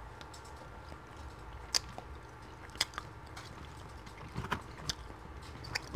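Close-miked chewing of a mouthful of chicken shawarma and rice, heard as a few scattered sharp mouth clicks. About four seconds in, a plastic fork digs into the food in a foam takeout container.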